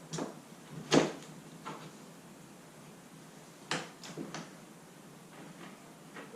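A few sharp clicks and knocks as hand tools and the kayak rudder's pin and screw are handled and fitted. The loudest knock comes about a second in, and a quick pair follows a little before the halfway mark.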